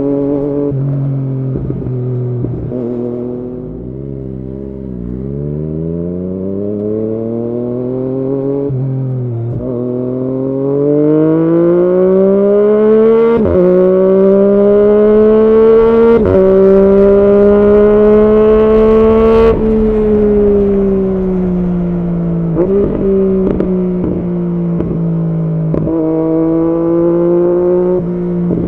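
Yamaha MT-09's three-cylinder engine through an Arrow aftermarket exhaust, ridden under way. Engine speed drops, then climbs steadily with a few brief breaks, like gear changes, and eases back down, with short throttle blips near the end.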